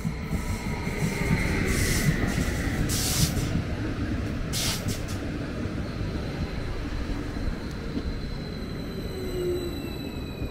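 An electric multiple unit train running past and into the platform: a rumble of wheels on rail, loudest about two seconds in, with two short hisses about two and a half and four and a half seconds in. Near the end a whine falls in pitch as the train slows to a stop.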